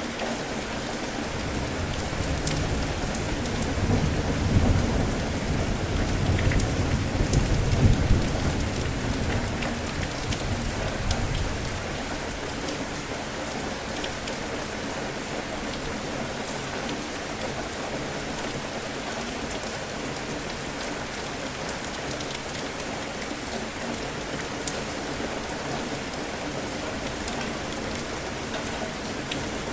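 Steady rain falling, with a low roll of thunder that builds a few seconds in, peaks, and dies away by about twelve seconds.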